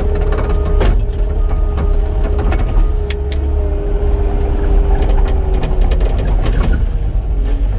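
Diesel engine of heavy earthmoving equipment, an excavator or skid steer, running steadily under work with a steady hydraulic whine, and scattered sharp knocks as rock is handled.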